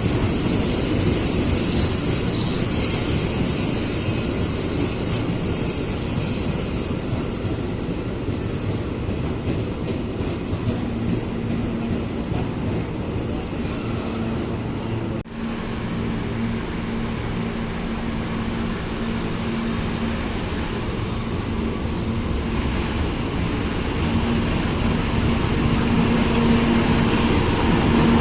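Train running through a railway station: steel wheels squeal on the rails at first, then a steady rumble of rolling cars, with a low hum coming in about halfway.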